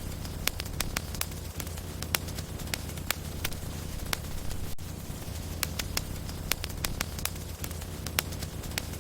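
Wood logs burning in a fireplace: frequent sharp crackles and pops, several a second and irregular, over a steady low rumble of the flames.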